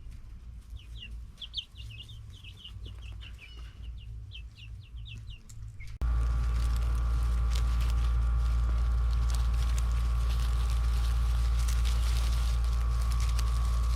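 Baby guinea fowl keets peeping in short, high, falling chirps, several a second. About six seconds in, the chirps are cut off by a loud, steady mechanical hum with a deep rumble and a constant tone, like a motor running.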